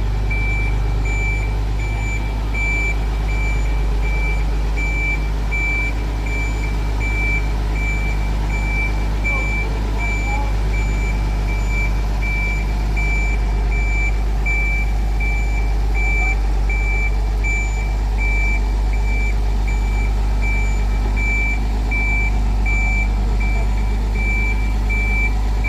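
Reversing alarm on a shunting vehicle beeping at an even, rapid pace, over the steady low hum of its running motor.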